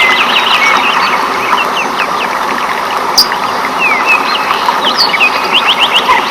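Rainforest ambience: many birds chirping in short, quick calls over a steady hiss, with a rapid run of calls near the end.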